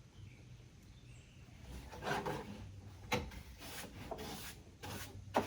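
Handling noise: rubbing and scraping with a few sharp knocks, as of wood or a hard object being moved and set down.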